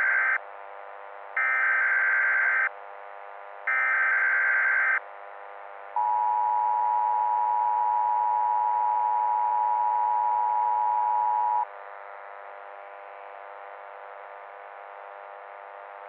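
Emergency Alert System tones: the end of one and then two more short bursts of screechy digital header data, then the EAS attention signal, a steady two-tone beep held about six seconds. A low hiss lies under it all.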